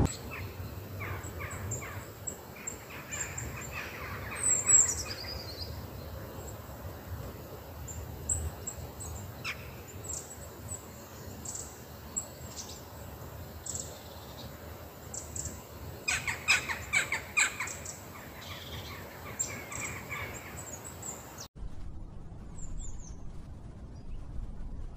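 Birds chirping and calling outdoors: scattered short high notes, one falling call about four seconds in and a quick flurry of chirps past the middle, over a steady low outdoor background. Near the end the background cuts off suddenly to quieter ambience.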